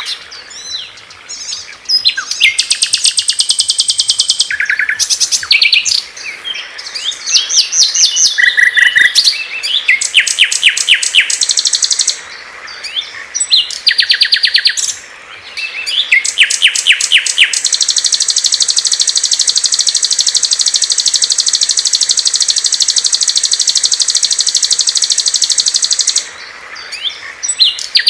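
Small songbirds singing loudly in fast, high-pitched chirps and trills, with a long unbroken high trill lasting about eight seconds in the second half.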